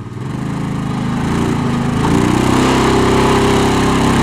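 Side-by-side UTV engine running under load while crawling a rocky obstacle. It grows louder over the first couple of seconds, then holds a steady pitch.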